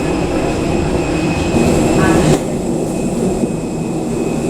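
Steady mechanical rumble and hiss from a vehicle, with a thin high whine. The hiss drops abruptly a little over two seconds in.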